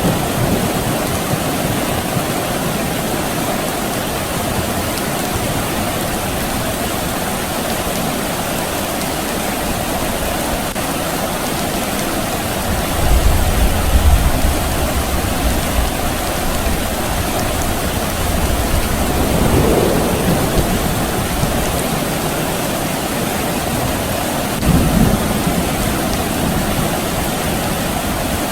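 Steady soft rain falling, with a low rumble of distant thunder about halfway through and a couple of fainter rumbles later.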